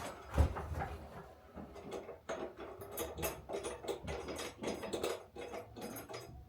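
Irregular light clicks, taps and rattles of a light fixture's small parts and hardware being handled.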